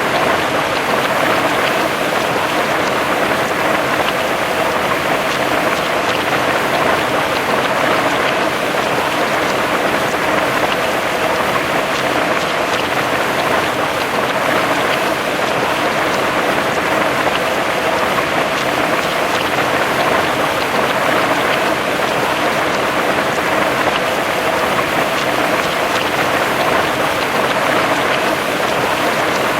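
Heavy rain falling steadily on a surface, a dense even hiss with fine droplet patter throughout.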